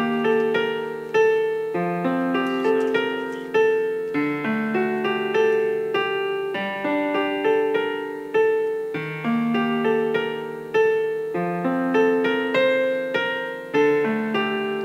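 Solo piano music played at its loudest setting through an old Logitech S220 computer speaker set. Only one of the two speakers is working; the other is broken.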